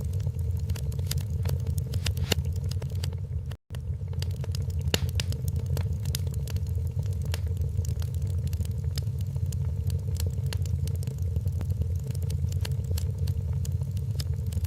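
Wood fire crackling, with irregular sharp pops and snaps over a steady low rumble. The sound cuts out for an instant about three and a half seconds in.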